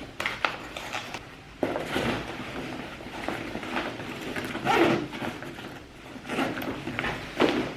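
Irregular rustling with scattered light knocks and clicks from things being handled, the loudest burst about two-thirds of the way through.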